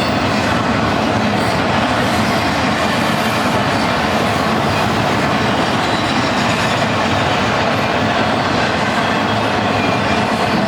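Freight train cars rolling past on the track: a steady, loud rumble and rattle of steel wheels on rail.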